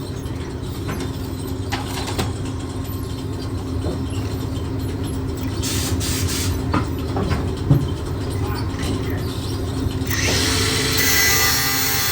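Angle grinder with a cutoff wheel running with a steady hum, with a few knocks, then biting into metal about ten seconds in with a harsh grinding hiss as it cuts through a bolt holding an elevator bucket to the belt.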